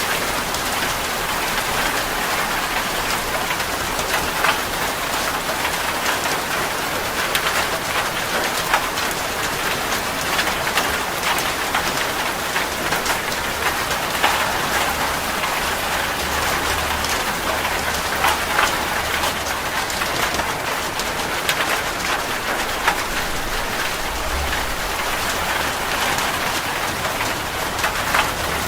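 Steady rain falling on a surface, with a dense patter of individual drops ticking throughout. A faint low rumble comes in about halfway through for several seconds and briefly again near the end.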